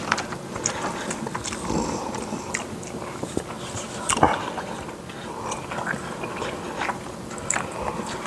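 Close-miked chewing and lip smacking of people eating fufu and soup with meat by hand: irregular wet smacks and clicks, the loudest about four seconds in.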